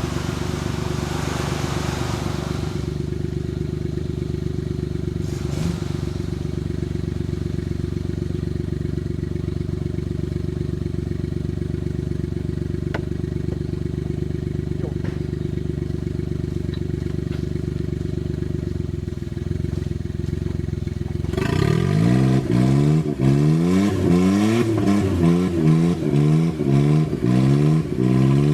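Suzuki Jimny JA11's small three-cylinder engine running at a steady, low speed, then from about 21 seconds in revving up and down again and again, about once a second, louder than before.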